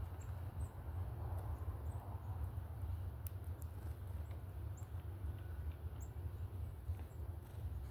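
Faint, short, high chip notes from small birds, scattered every second or so over a steady low rumble. A couple of sharp clicks come about three seconds in.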